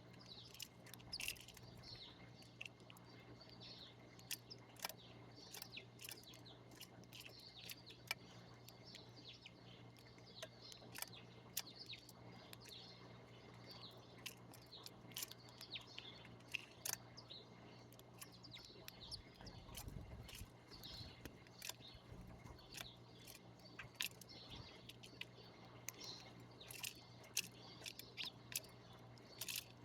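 Small birds chirping busily, many short high chirps overlapping throughout, over a faint low steady hum.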